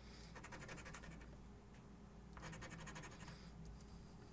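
Faint scraping of a scratch-off lottery ticket's latex coating being scratched off, in runs of quick back-and-forth strokes with a short pause partway through.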